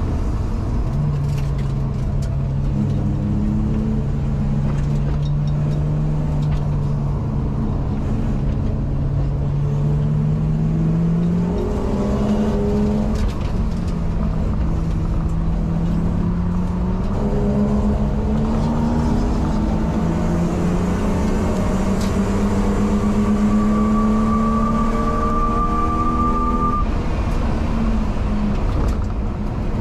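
BMW race car engine heard from inside the cabin at speed, its note slowly climbing under throttle, stepping down at a gear change about eleven seconds in and climbing again. Near the end a higher whine joins in before the engine note drops away, all over steady road and wind noise.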